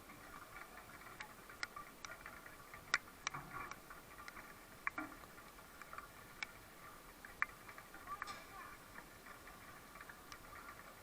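Faint, indistinct voices in the distance, with a dozen or so irregular sharp clicks; the strongest come about three seconds in and again about seven seconds in.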